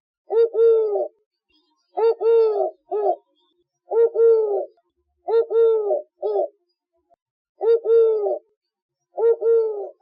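Dove (tórtola) cooing: a repeated phrase of a short coo followed by a longer one, sometimes with a third short note, about six phrases spaced one and a half to two seconds apart.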